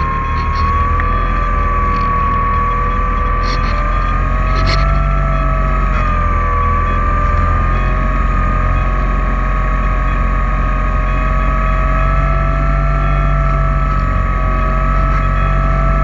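Multirotor camera drone's propellers and motors whining steadily in flight, the pitch wavering slightly as the motors adjust, over a low rumble.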